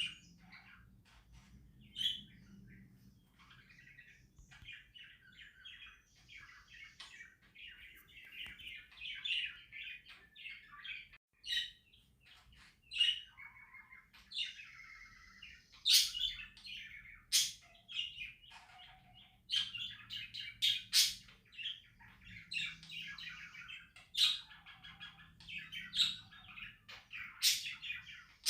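Pet budgerigars chattering and warbling without a break, with sharp, loud chirps now and then.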